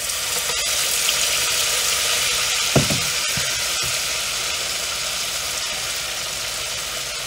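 Batter-coated cod frying in oil heated to about 325–350°F in a cast-iron skillet: a loud, steady sizzle that begins as the fish goes in and eases off slowly. One brief sharp sound is heard about three seconds in.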